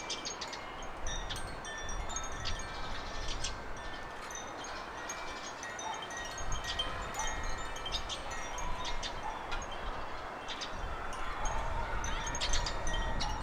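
Wind chime tinkling, many light high strikes that ring on briefly, over a low rumble.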